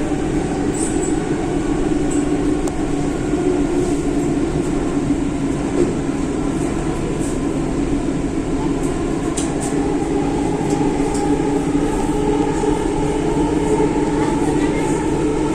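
Delhi Metro train running, heard from inside the coach: a steady rumble with a hum of a few steady tones and scattered faint high ticks.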